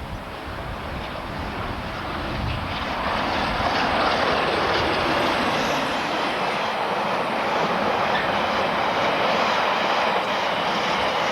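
Train passing at speed: a rush of noise that swells over the first few seconds, then a loud, steady roar of wheels on rail.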